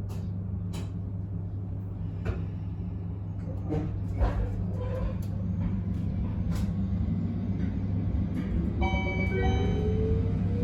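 Abukuma Express 8100 series electric train heard from inside the car: a steady running hum with scattered rail-joint clicks. About two-thirds of the way through, a motor whine rises steadily in pitch as the train gathers speed. Near the end a brief chime sounds.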